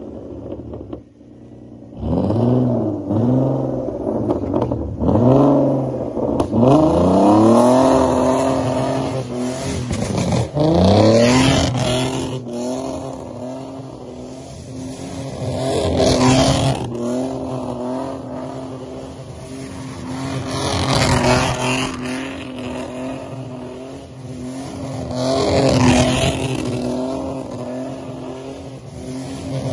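BMW E30's swapped-in straight-six engine revving hard as the car drifts on dirt. From about two seconds in the engine note rises and falls in quick repeated blips, then holds high and steady, with a louder rush of engine and tyre noise every five seconds or so as the car slides past.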